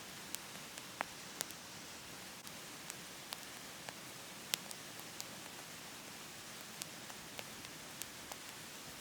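Wood burning in a wood stove, crackling with irregular sharp pops about twice a second, the loudest about halfway through, over a steady hiss.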